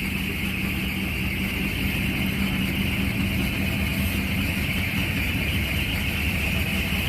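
An engine idling steadily with a low hum, with a steady high-pitched hiss over it.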